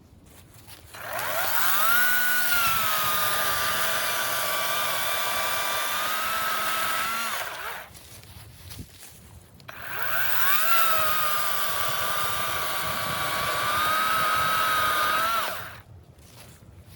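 EGO 56-volt battery chainsaw bucking a seasoned sugar maple log, run twice for about six seconds each. Each run starts with a rising whine as the motor spins up, holds a steady electric whine through the cut, then stops.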